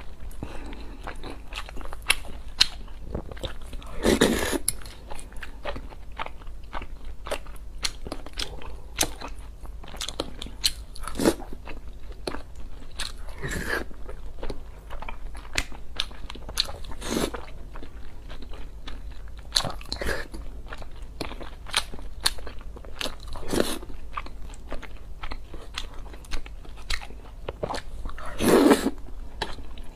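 Close-miked wet chewing and mouth noises of a person eating boiled dumplings in a thick sauce, picked up by a clip-on microphone. Constant small smacking clicks, with louder sucking bursts every few seconds as a dumpling is taken in, the loudest near the end.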